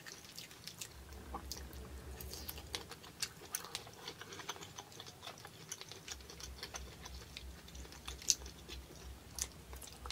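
Close-miked chewing of lobster claw meat: a steady run of small, scattered mouth clicks.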